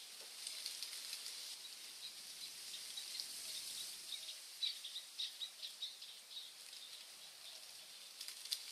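Faint forest birdsong: a run of short, high chirps about halfway through, over a soft steady hiss, with a couple of sharp ticks near the end.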